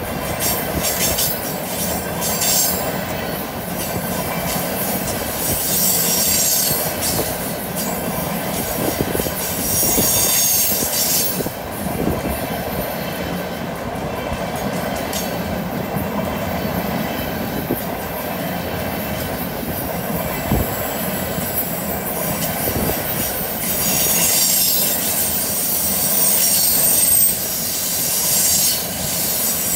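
Empty intermodal flatcars of a freight train rolling past on a curve: a continuous rumble and clatter of steel wheels on rail. High-pitched wheel-flange squeal against the curved rail swells and fades several times, strongest near the end.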